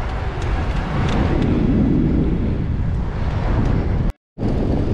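Wind buffeting the microphone of a moving bicycle, a steady low rumbling rush. It cuts out completely for a moment about four seconds in.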